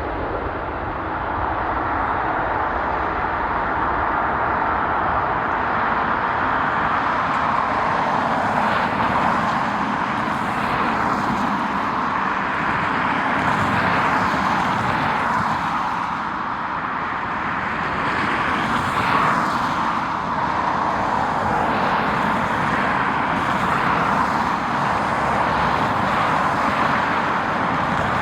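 Jet airliner engines running, a steady rushing noise that swells and eases a little.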